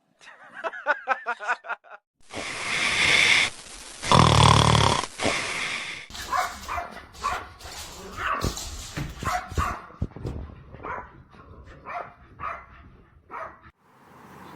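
A dog barking and yapping in many short calls, starting with a quick run of them. There are two loud, noisy stretches about two and four seconds in.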